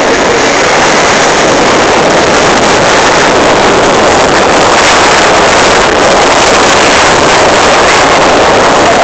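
Loud, steady rush of wind buffeting the microphone over a jet ski running at speed on the water.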